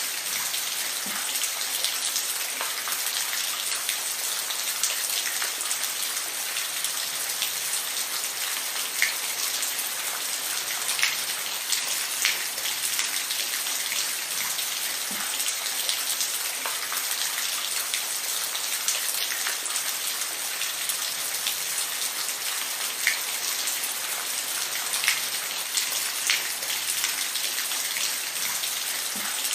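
Steady rain falling, an even hiss with scattered louder drops hitting a surface.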